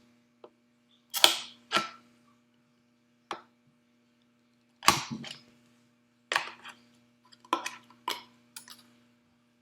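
A plastic bottle being cut with a blade, giving about ten sharp cracks and snips at uneven intervals, some in quick pairs, as feed slots are cut into its side.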